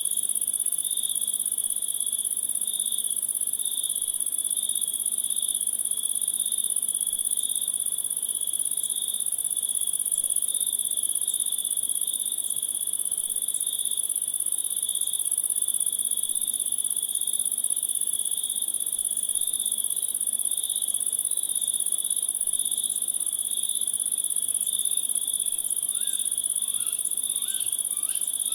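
A steady chorus of insects trilling: one very high continuous trill, with a lower trill beneath it that pulses in rapid beats. A few faint short chirps come in near the end.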